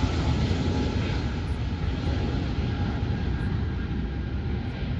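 Jet airliner engines rumbling, with a faint steady whine over the noise, slowly fading.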